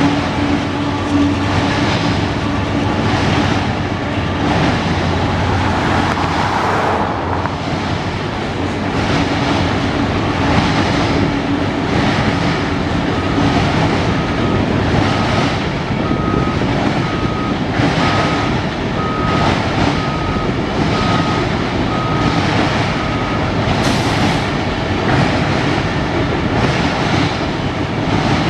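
Canadian Pacific freight train rolling past, a steady rumble of wheels on rail with regular clacks as wheels cross rail joints.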